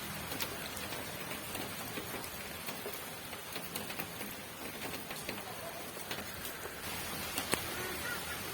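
Steady rain falling, a continuous hiss with scattered individual drops tapping.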